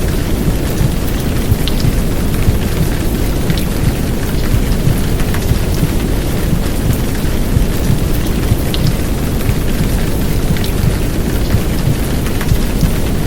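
Heavy downpour rain, a dense steady hiss with scattered drop ticks, mixed over a deep, muffled rumbling womb-sound bed of white noise.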